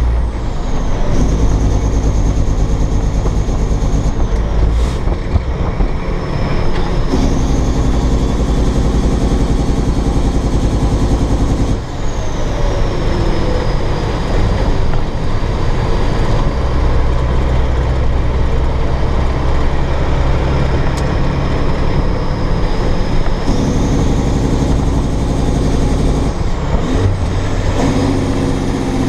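Cat C15 diesel engine of a dump truck pulling under load, its note breaking and picking up again several times as gears are changed, with a faint high whine that falls in pitch.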